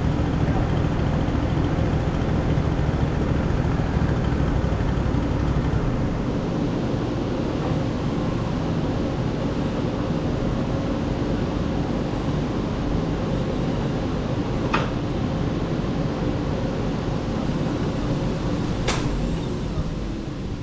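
Wood-Mizer LT35 portable sawmill's engine running steadily; its low rumble eases about six seconds in. Two sharp clicks near the end.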